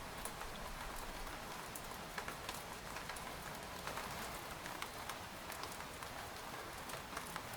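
Steady rain pattering on a tent, a constant hiss dotted with many separate drop taps.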